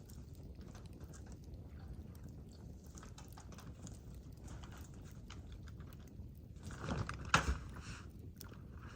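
Campfire crackling, with scattered small snaps over a low steady rumble and one louder crack about seven seconds in.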